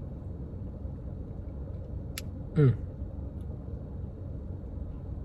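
Steady low rumble throughout. About two seconds in there is a sharp click, then a brief falling 'mm' from the taster as he tries a spoonful.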